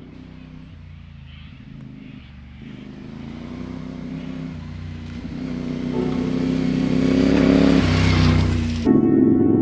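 CFMoto 450MT parallel-twin engine running under way on a dirt trail, growing steadily louder as it accelerates, with rising tyre and wind rush. The sound cuts off abruptly near the end.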